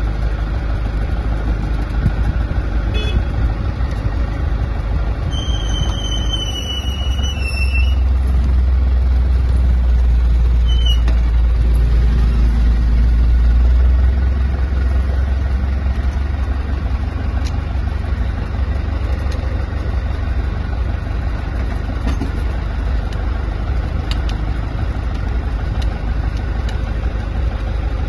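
A vehicle engine running at idle, its low rumble swelling for several seconds in the first half. A high squeal lasts about two seconds, and there are a couple of short squeaks.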